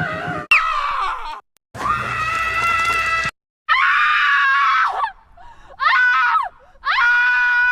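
A string of cartoon scream sound effects, one cut straight after another: about five short, high-pitched screams, each stopping abruptly, several sliding down in pitch as they end.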